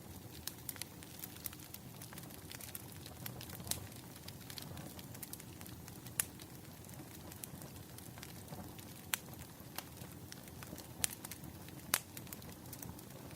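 Wood fire crackling, with a steady low hiss and rumble and frequent sharp pops; a few louder pops stand out about six seconds in and twice near the end.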